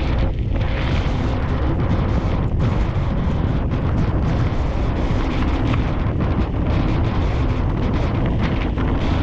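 Wind buffeting the camera's microphone during a mountain-bike ride, a loud, steady rumble.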